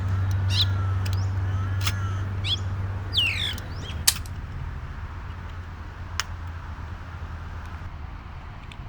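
Birds calling: a handful of short sweeping calls in the first three and a half seconds over a steady low hum, followed by two sharp clicks about four and six seconds in.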